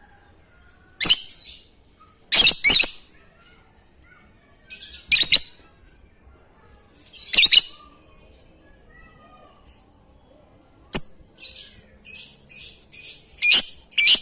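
Lovebird giving short, harsh, high-pitched chirping calls a couple of seconds apart, then a quick run of chirps near the end.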